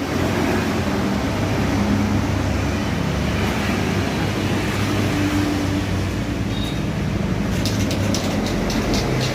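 A machine running with a steady low hum. About seven and a half seconds in, a fast run of evenly spaced clicks joins it.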